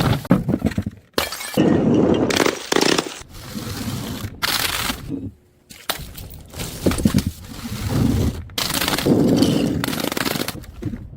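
Glass bottles breaking and shattering, one crash after another in short abrupt segments, with crunching and tinkling of glass.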